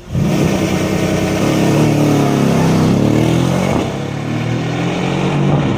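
Mercedes-AMG C63 V8 accelerating hard from a launch. The engine note comes in loud and suddenly, climbs in pitch, and eases off a little about four seconds in.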